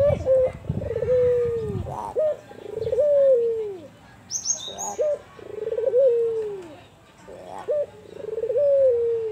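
Albino puter (Barbary dove) cooing over and over, about four phrases: each opens with a short note, rolls into a fast trembling coo and ends in a long falling coo.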